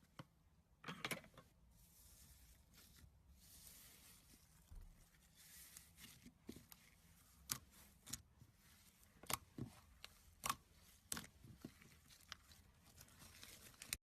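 Slime being squished and stretched by hand: soft, faint swishing with a scatter of sharp little pops and clicks, several of them in the second half.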